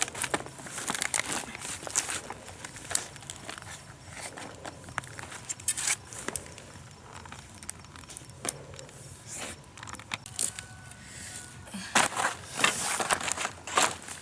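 Irregular crinkling and crackling handling noise with scattered sharp clicks, louder in a cluster about twelve seconds in.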